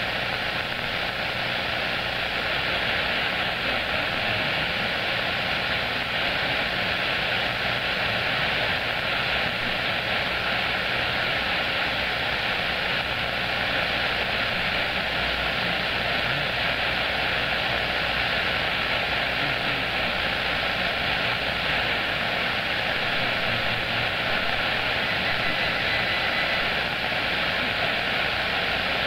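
CB radio receiver hissing with steady static from an open channel while no station is transmitting. A faint, brief whistle sounds about 25 seconds in.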